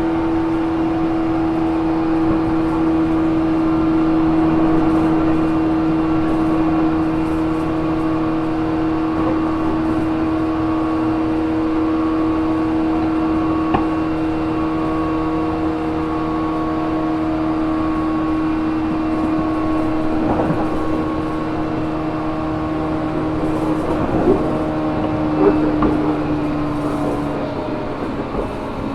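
JR Kyushu 415 series 1500-subseries electric train running, heard from inside motor car MoHa 414-1513: a steady whine from the traction motor and gears, with a few sharp knocks from the running gear over the track, twice close together near the end. This car is known for an unusual running noise. The main tone fades out just before the end.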